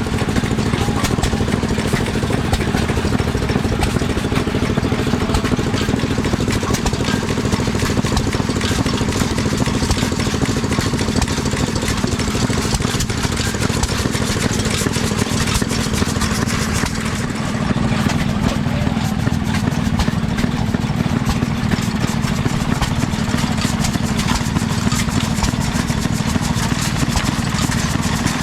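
An engine running steadily at a fast, even idle, with a brief dip in level about 17 seconds in.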